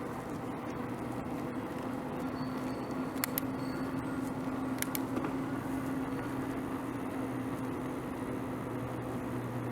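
Steady road and traffic noise heard while riding a bicycle, with a low hum throughout and a few sharp clicks about three and five seconds in.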